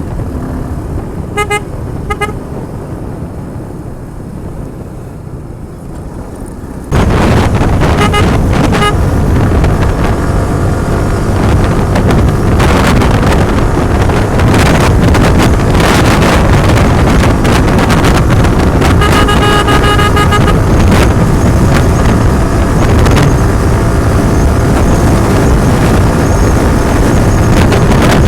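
Motorcycle ride: engine and road noise with wind on the microphone, turning suddenly much louder about seven seconds in and staying loud. Short vehicle horn honks sound twice about two seconds in, again just after the jump, and once more past the middle.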